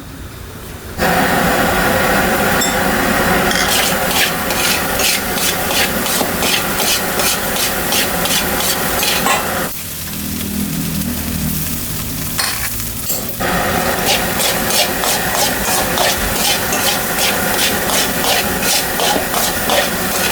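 Fried rice sizzling in a hot pan while a spatula stirs and scrapes it in a steady rhythm, about two strokes a second. The stirring pauses for a few seconds about halfway through.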